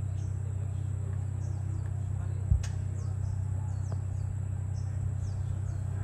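Birds chirping with short, high, falling calls repeated every half second or so over a steady low hum, with one sharp knock about two and a half seconds in.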